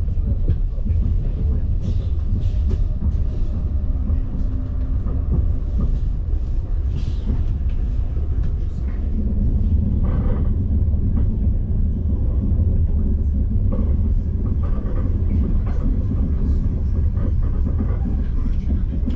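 Frecciarossa ETR 500 high-speed train running, heard inside the passenger coach as a steady low rumble with faint scattered ticks and rattles.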